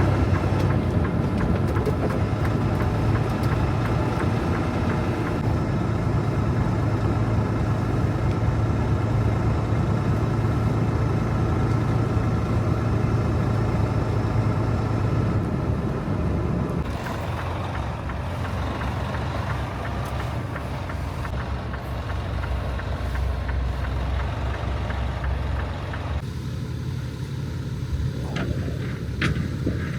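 Truck running with a steady low engine hum and road noise. The sound shifts in character about halfway through and again near the end, where a few clicks come in.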